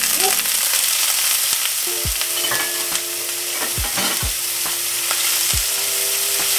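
Diced pre-cooked meatballs sizzling hard in a hot non-stick frying pan just after being dumped in, with scattered spits and pops from the water in the pan.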